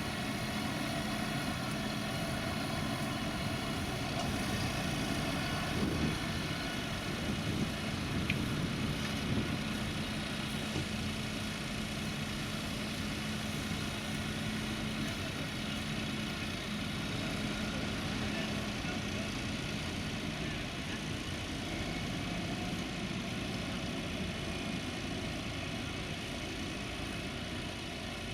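Diesel tractor engine running steadily, a continuous drone with a held hum.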